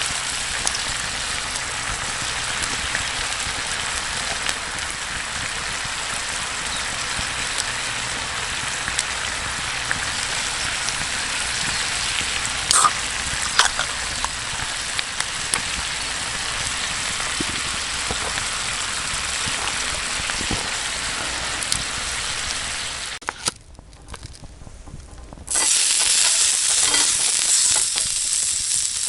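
Food sizzling in a hot pan over a campfire, a steady hiss with a few crackles and pops. The sizzle drops away briefly near the end, then comes back louder.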